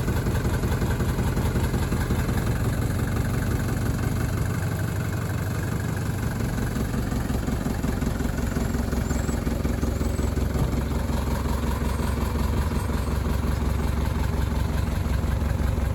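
1983 Mercedes-Benz 240D's four-cylinder diesel engine running at idle with a steady clatter and a little bit of shudder, a sign of an engine in poor health whose valves are out of adjustment. Its low note shifts about four and a half seconds in.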